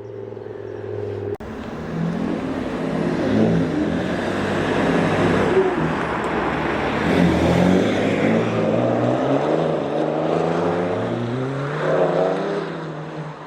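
A car engine revving as the car drives off, its pitch climbing and dropping several times, then fading near the end.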